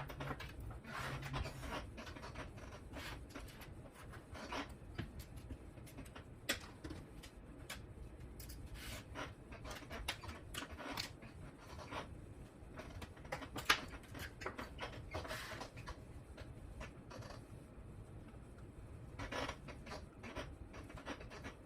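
Faint handling noise of servo wires and small parts being worked by hand: scattered light rustles, scrapes and clicks, with one sharper click about fourteen seconds in.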